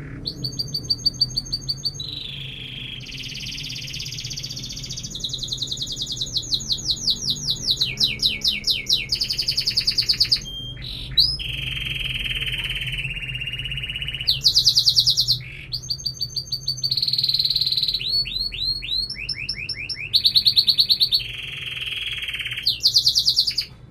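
Domestic canary singing a long song of trilled phrases, each a different note repeated many times in quick succession, switching between fast high trills, slower chirped notes and lower rolling trills.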